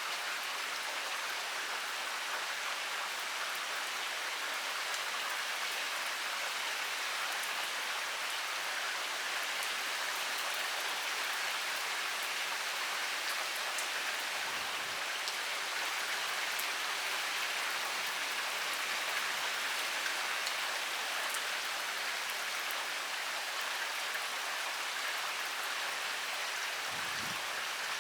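Heavy rain pouring steadily: a dense, even hiss of rain on surfaces, with many sharp drop ticks scattered through it.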